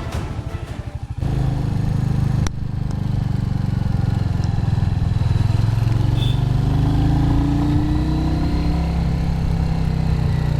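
Royal Enfield Hunter 350's single-cylinder engine pulsing quietly for about a second, then louder and running steadily as the motorcycle rides on. A single sharp click comes about two and a half seconds in.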